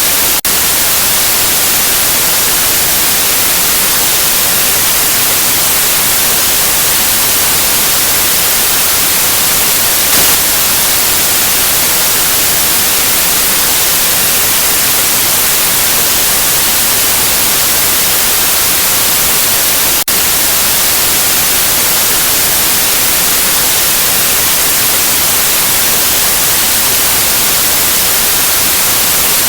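Steady white noise: an even, loud hiss strongest in the high end, with a momentary break about twenty seconds in.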